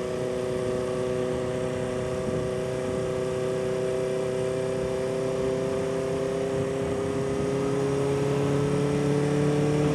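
1976 Honda CB400F air-cooled inline-four engine running steadily under way, its pitch slowly rising over the last few seconds as the bike gathers speed.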